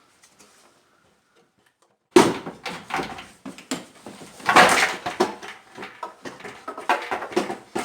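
Hard engine parts knocking, clunking and scraping against each other as the intake manifold is maneuvered back into place on a 2.7 V6 engine bay. The irregular knocks begin about two seconds in.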